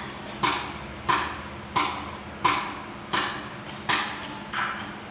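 Repeated hammer taps on metal, about one every two-thirds of a second, each with a short ring, as a stuck part is knocked loose.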